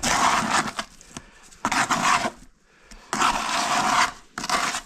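Four rough scraping strokes against masonry, like a trowel or tool dragged over brick and mortar, each lasting about half a second to a second with short pauses between them.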